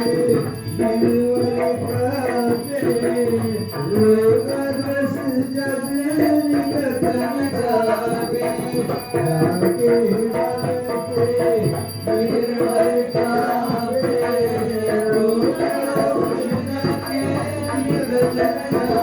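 Arti devotional singing: voices carrying a wavering melody over fast, continuous jingling metal percussion.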